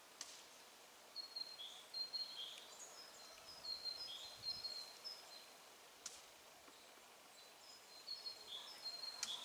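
Small songbirds chirping in short high notes, coming in quick runs with brief pauses, with a few faint clicks, the sharpest near the end.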